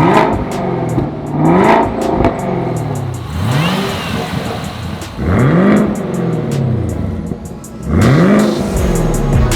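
The supercharged 6.2-litre LT4 V8 of a 2019 Chevrolet Camaro ZL1 is blipped about five times. Each rev climbs and drops back in pitch within about a second, with a faint rising supercharger-like whine in the middle of the run.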